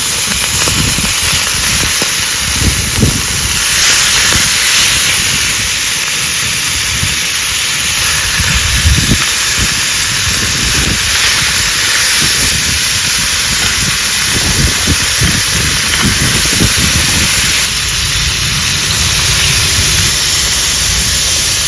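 Frying pan sizzling hard over a high flame: a loud, steady hiss of food frying in hot oil, with uneven low rumbles underneath.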